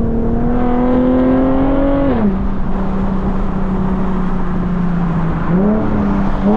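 Infiniti G37 coupe's VQ37 V6 running through a full titanium Tomei exhaust, pulling in gear with the pitch slowly climbing. About two seconds in the revs drop sharply at an upshift, the engine holds a steady lower note, and near the end the revs rise again.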